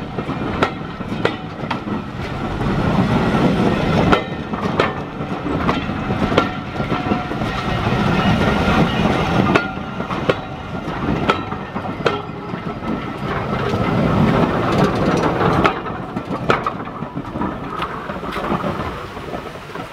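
A train running along the track: a steady rumble, with the wheels clicking over rail joints every second or so.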